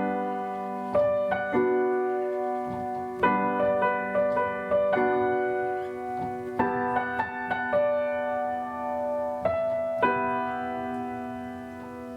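Background piano music: soft sustained chords, a new chord every second or two, with a few lighter notes between.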